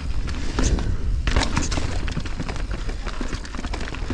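Mountain bike rattling and clattering down a rough downhill trail: a run of sharp knocks and clicks from the bike hitting rocks and roots over a steady low rumble of wind on the microphone.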